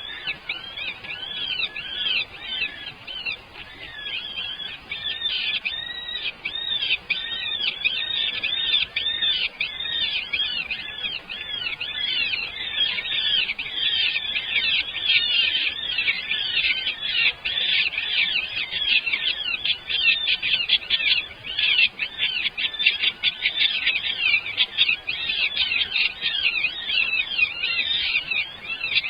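Many baby birds making begging calls: a dense, continuous chorus of rapid, overlapping high chirps that grows busier after the first ten seconds or so.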